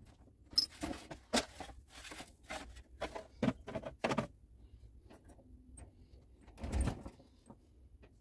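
Scattered clicks, knocks and rattles of a dehumidifier's casing and parts being handled during disassembly, with a heavier thump near the end.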